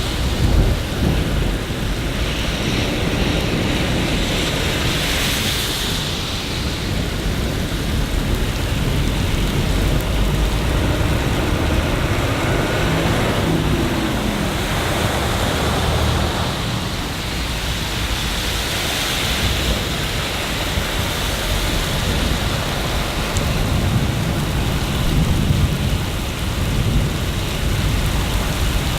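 Steady rain falling, with a constant low rumble underneath and slow swells in the hiss.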